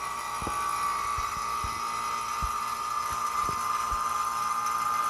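Air-conditioning vacuum pump running steadily with a constant whine, pulling a vacuum on a car's A/C system to test it for leaks. A few faint knocks sound now and then.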